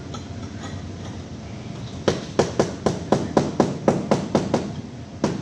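Rapid hammer blows, about four a second, starting about two seconds in and carrying on almost to the end.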